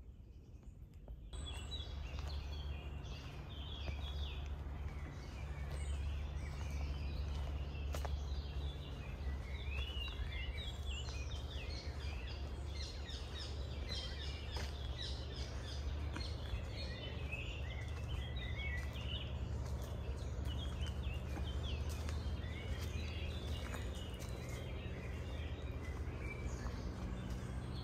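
Many small birds chirping and twittering in woodland, a busy overlapping chorus, starting about a second in. A steady low rumble runs underneath.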